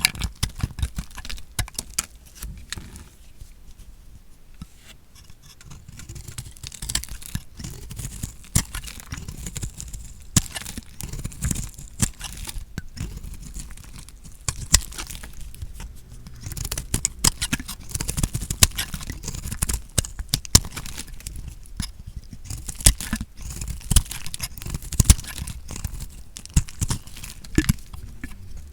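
A knife cutting through soap, giving crisp crunching and crackling snaps in dense runs, with quieter spells about three seconds in and again about three quarters through.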